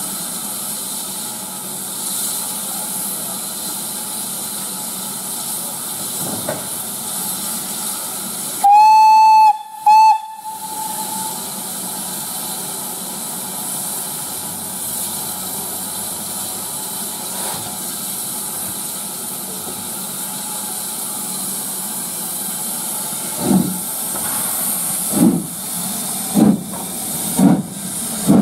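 Steam locomotive hissing steam and sounding its whistle: one blast of about a second, then a short toot. Near the end it starts away, with slow exhaust chuffs that gradually quicken.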